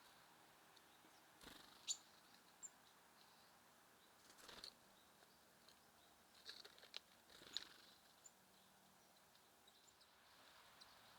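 Near silence broken by a few faint, brief flutters and taps of small birds at a feeder, with a couple of tiny high chirps.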